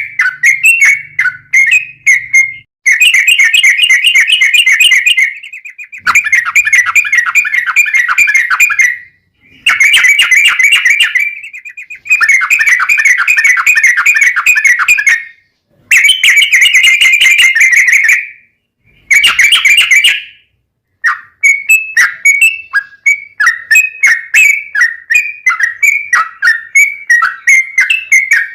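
Yellow-vented bulbul singing: long, fast rolling trills of a few seconds each, broken by short pauses, with separate quick chirping notes at the start and again near the end.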